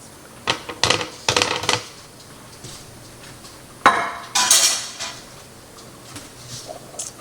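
Kitchen utensils and dishes clinking and knocking in two short bursts, about a second in and again about four seconds in.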